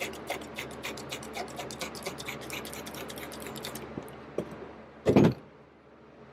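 Quick, regular ticking, about five ticks a second, that stops about four seconds in, followed by one short loud noise.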